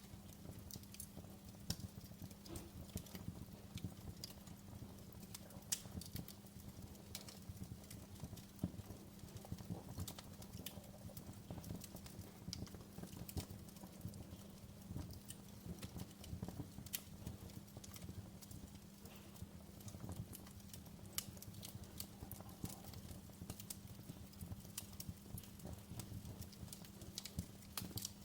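Wood fire crackling in a fireplace: irregular sharp pops and snaps over a low steady rumble, with a thin steady hum underneath.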